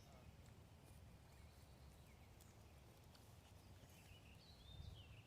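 Near silence: faint outdoor background with a low steady rumble, and faint high wavering chirps coming in about four seconds in.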